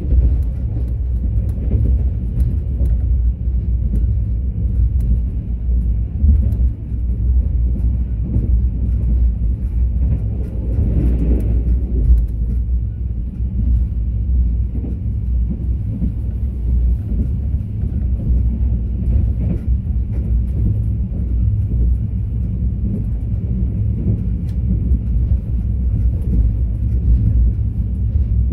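Mugunghwa-ho passenger train running along the line, a steady low rumble with faint rattles now and then.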